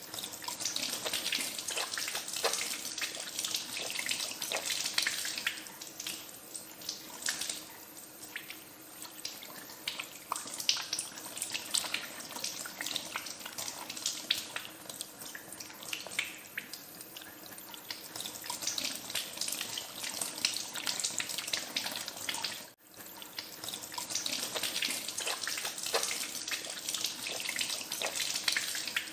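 Tap water running into a sink while hands are washed under it, with many small splashes and swells in the flow. The sound breaks off for an instant about three-quarters of the way through, then carries on.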